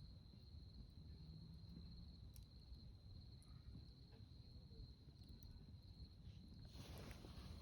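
Faint night ambience: a steady, high-pitched trill of night insects, with a few faint crackles from the campfire. About seven seconds in, a brief rustling noise.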